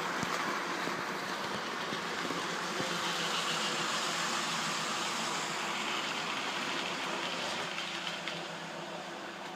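N gauge model trains running on the layout: steady rattle of small wheels on track with a faint electric motor hum, easing slightly near the end.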